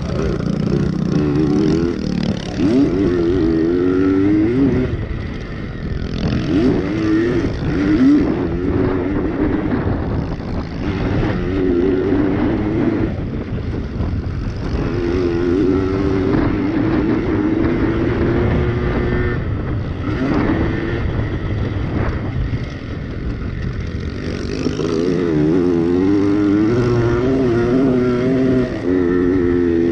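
Small two-stroke Yamaha PW80 pit bike engines revving up and down as they are ridden, the pitch rising and falling again and again, with more than one engine sometimes heard at once.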